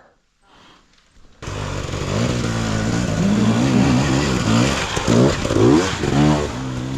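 Near silence for the first second and a half, then a dirt bike engine cuts in and runs under changing throttle, its pitch rising and falling, with a few quick blips of the throttle near the end.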